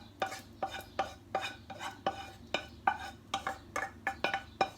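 A utensil clinking and knocking against the cookware while pasta is stirred and mixed with tomato sauce, in uneven strokes about three a second, each with a short ring.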